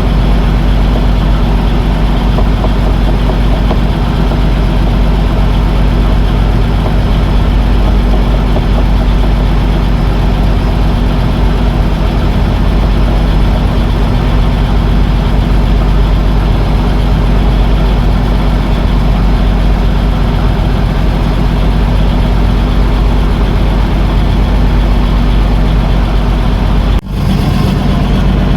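Fishing boat's engine running steadily with a loud low rumble, broken off briefly near the end.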